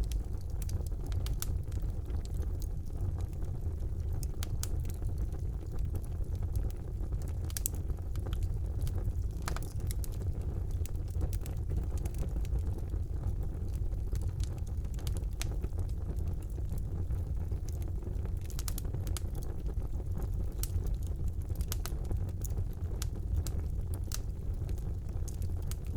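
Fire burning in a fireplace: a steady low rumble of flames with frequent sharp crackles and pops at irregular intervals, thickest around a third of the way in and again in the last third.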